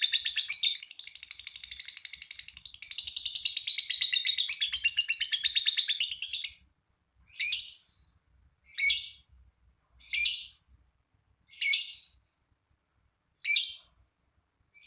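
Lovebird singing its long, rapid chattering trill (the 'ngekek' song), which breaks off about six and a half seconds in; after that come single shrill calls about every second and a half.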